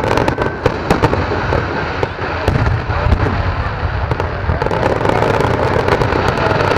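Fireworks display: a dense, continuous barrage of bursting shells, many sharp bangs and crackles in quick succession.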